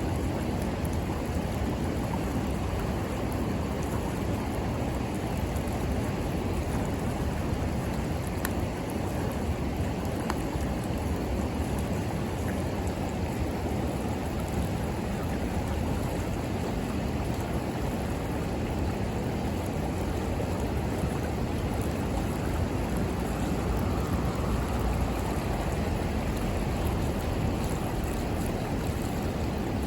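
River water rushing steadily over its bed, with a couple of faint crackles from the bonfire.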